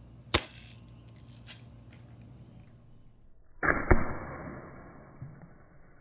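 BB gun firing: a single sharp crack, then a fainter snap about a second later. About three and a half seconds in comes a louder, muffled burst with a sharp crack in it that trails off over a couple of seconds.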